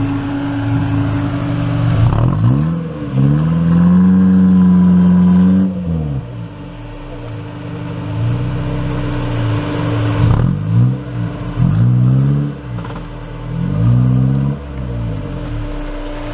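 Off-road 4x4's engine revving hard: a rev that climbs about two seconds in and is held high for a couple of seconds, then several shorter bursts of throttle that rise and fall, over a steady engine hum.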